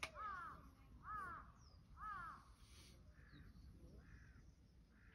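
A crow cawing, a series of caws about one a second, the first three loud and the later ones fainter. A sharp click right at the start.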